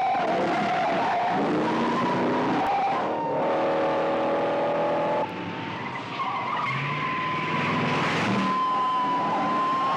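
Car chase: car engines revving hard and tyres squealing in long, drawn-out squeals, with a brief lull about five seconds in.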